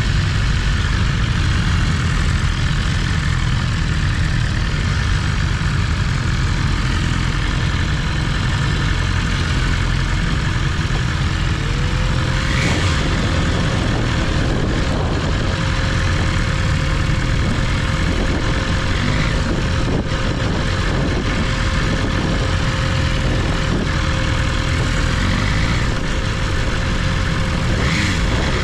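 BMW S1000RR's liquid-cooled 999cc inline-four running at a steady pace on a road ride, a constant low rumble with no big revs. A thin steady whine joins about twelve seconds in and holds.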